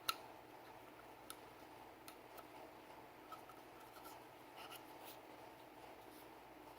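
Faint rubbing and small clicks of Sig Sauer P320 pistol parts being handled and cleaned, with one sharper click just at the start and scattered light ticks after it.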